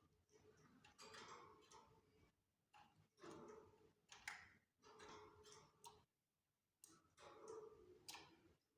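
Faint clicking and scratching from canaries in their cage, in short irregular patches with pauses between.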